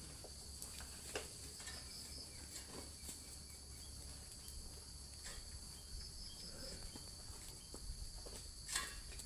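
Steady high-pitched insect chirring, with scattered soft clicks and rustles throughout and a louder one near the end.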